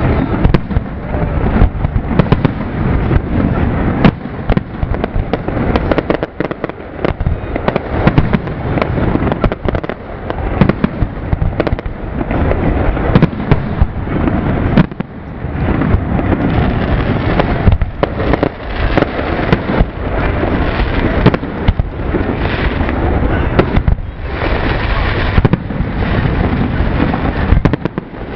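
Zambelli professional aerial fireworks display: shells launching and bursting one after another in a rapid, overlapping barrage of loud booms and bangs with hardly a pause.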